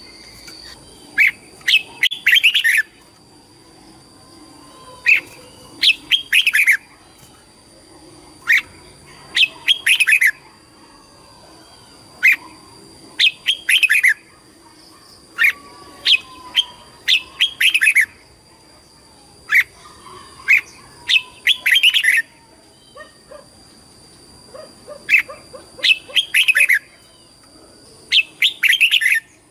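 Red-whiskered bulbul singing: short, loud whistled phrases repeated every second or two, with a few brief pauses. A faint steady high tone runs behind the song.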